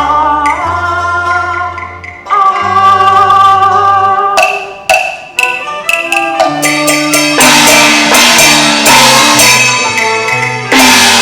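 Instrumental passage of a live band accompanying a Cantonese song: a melody line over held bass notes, with a few sharp percussion strikes in the middle and fuller playing near the end.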